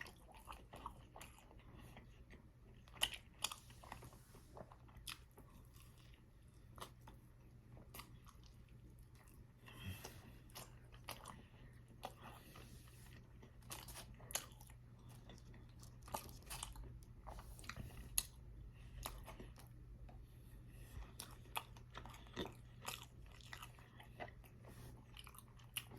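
A person chewing and biting food close to the microphone, with scattered crunches and small mouth clicks.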